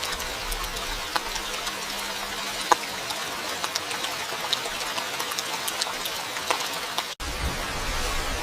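Steady rain falling, with scattered sharp taps of individual drops landing close by. About seven seconds in, the sound cuts out for an instant and comes back with more low rumble.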